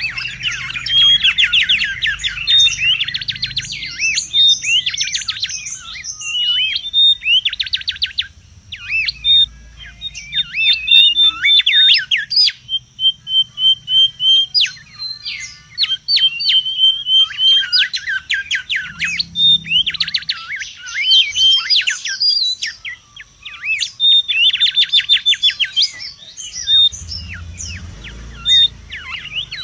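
Mangrove whistlers (kancilan bakau) calling noisily: dense, rapid runs of sharp up-and-down whistled notes in bursts separated by short pauses, with a brief run of evenly spaced piping notes near the middle. A thin steady high whine and a faint low rumble lie underneath.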